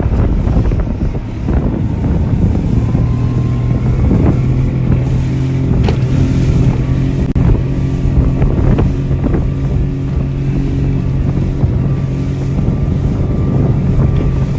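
Motorboat running under way at speed, its engine holding a steady note that settles in about two and a half seconds in, with wind buffeting the microphone and a few short knocks.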